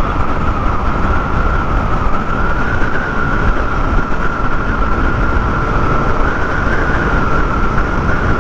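Motorcycle cruising at highway speed: heavy wind and road noise with a steady high whine.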